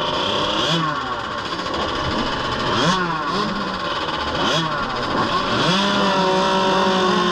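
KTM 65 two-stroke youth motocross bike engines revving up and down in quick throttle blips, the pitch climbing and dropping about once a second, then holding a steadier, higher note near the end.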